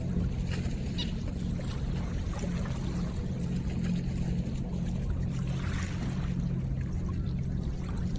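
River water running, with scattered small drips and splashes over a steady low hum.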